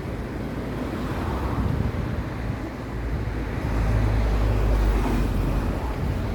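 Wind buffeting the microphone: a low, rumbling gust that swells about three and a half seconds in and eases off near the end.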